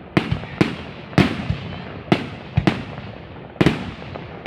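Fireworks display with aerial shells bursting one after another: about eight sharp bangs at irregular intervals, each trailing off in echo.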